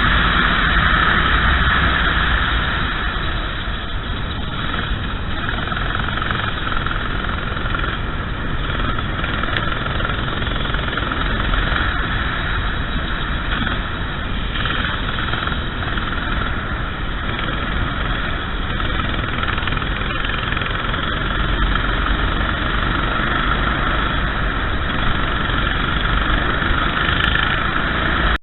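Racing kart engine running hard on track, with its level easing slightly a few seconds in and climbing again near the end.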